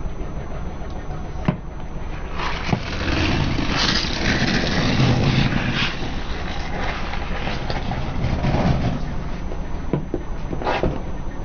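Car running at low speed with a steady engine rumble as its tyres roll over objects, giving a few sharp cracks and a crackling, crunching stretch through the middle.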